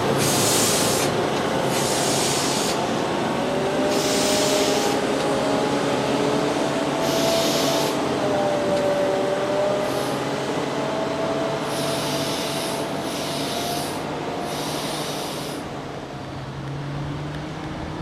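Heavy diesel farm machinery running, its engine note wandering up and down in pitch, with eight short hisses spread through, growing fainter over the last few seconds.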